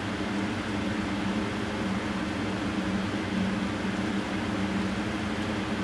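Steady mechanical hum with a constant low drone and even background noise.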